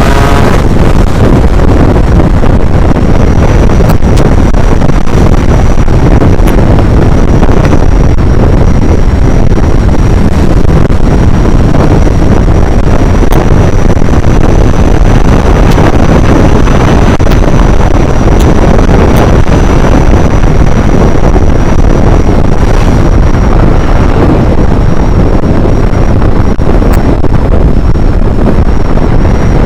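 Heavy wind rushing over the microphone of a moving vehicle, with a thin steady high-pitched tone running through it.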